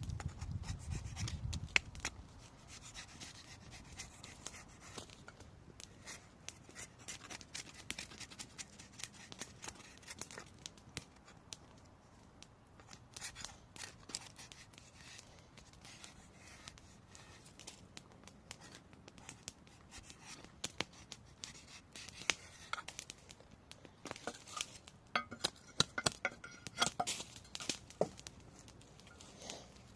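Knife whittling wood by hand: a long run of short scraping, shaving strokes, with louder clusters of cuts a few seconds before the end. A low rumble sits under the first couple of seconds.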